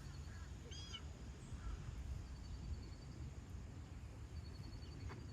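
Faint bird calls in woodland: a couple of short chirps about a second in, and quick ticking trills that come several times, over a steady low rumble.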